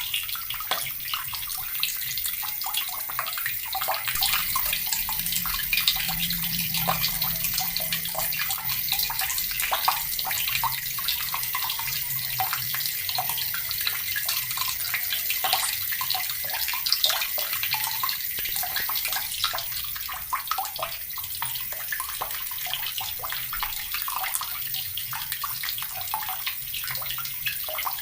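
Water running steadily from a tap and splashing, with a constant stream of small irregular splashes.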